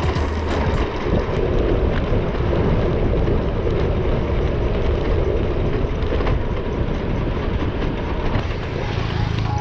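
Steady rushing of wind and road noise while riding a bicycle, with a few faint clicks.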